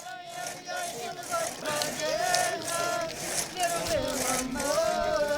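Several people's voices overlapping, with long drawn-out high notes.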